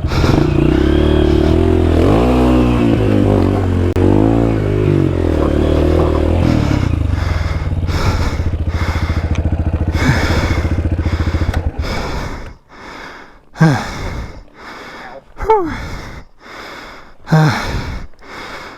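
A Honda CRF250R's four-stroke single-cylinder engine runs and is revved up and down, then stops about twelve seconds in. After that comes a rider's heavy, gasping breathing, a loud breath about every two seconds.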